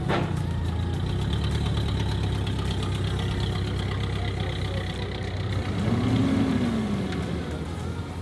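A car engine idling steadily, with one brief rise and fall in pitch about six seconds in.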